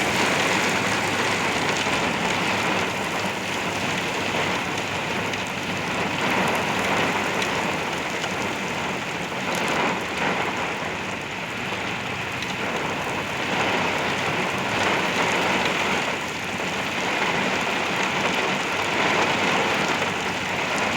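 Very heavy wind-driven rain beating on a vehicle, heard from inside: a dense, steady hiss, like going through a car wash, that swells and eases every few seconds.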